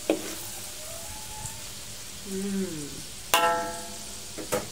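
Flour-coated peanuts frying in hot oil in a wok: a steady sizzling hiss. Over it there is a short click at the start, a brief vocal sound a little after two seconds in, and a louder sharp call with a steady pitch about three and a half seconds in.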